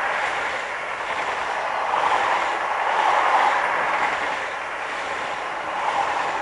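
Electric train passing close by: a loud, steady rush of wheels on rails that swells and eases several times.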